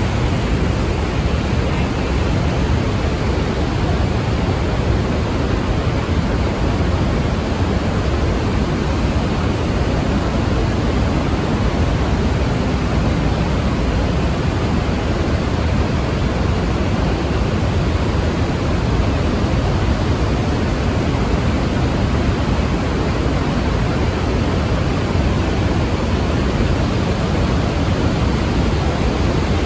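Steady, unbroken rush of a huge waterfall, the Iguazu Falls, heard at close range.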